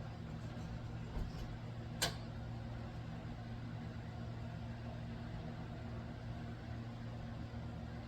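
Room tone: a steady low mechanical hum, with one sharp click about two seconds in.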